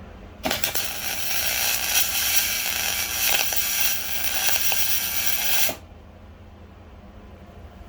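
A power tool runs loudly for about five seconds, a hissy whirring with a steady whine in it, starting and stopping abruptly.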